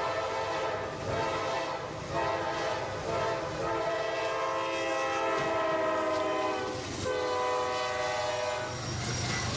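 Multi-tone train air horn sounding long held blasts, a chord of several notes, with short breaks between blasts. Its pitch drops slightly about seven seconds in.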